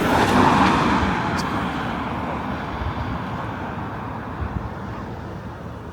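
A road vehicle passes close by and fades away, its noise dying down steadily over several seconds.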